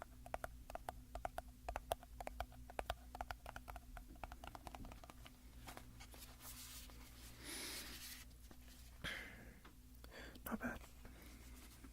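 Close-miked ASMR trigger sounds: rapid light fingertip taps on a small hard object, about three or four a second, then a short scratchy rub and a few brief scrapes near the end.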